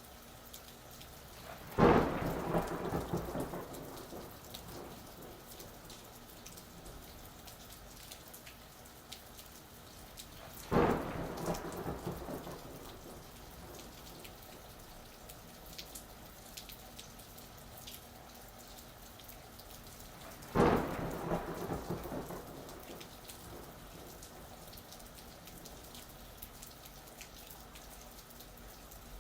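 Steady rain falling, with three thunderclaps about ten seconds apart, each a sudden crack that rumbles away over a couple of seconds.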